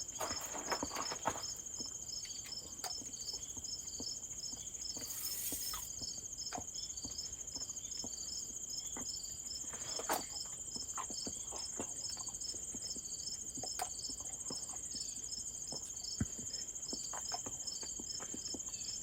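Crickets chirping steadily: a continuous high trill with a regular pulsed chirp about twice a second. Faint scattered clicks and taps sound alongside.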